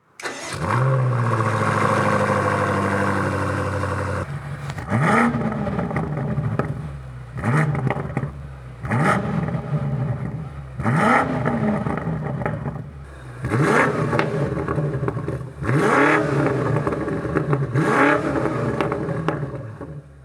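2021 BMW M8 Competition's 4.4-litre twin-turbo V8 through an M Performance exhaust: it starts with a flare that settles to a steady idle, then is revved about seven times in quick blips, each rising and falling back to idle.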